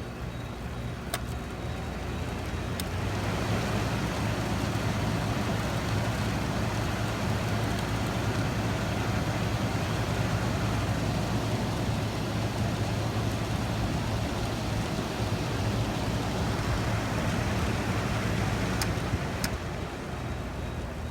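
1984 Hotpoint 8400 BTU window air conditioner running on cool: steady compressor hum and fan air, getting louder about three seconds in and easing off near the end, with a few faint clicks.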